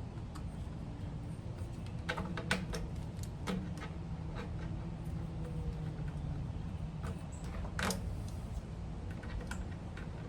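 Scattered small clicks and light metallic handling noises as a rubber fuel line is pushed back onto the engine's fuel fitting and its hose clamp is set in place, with a cluster of clicks a couple of seconds in and a sharper click near the end. Under it runs a steady low hum.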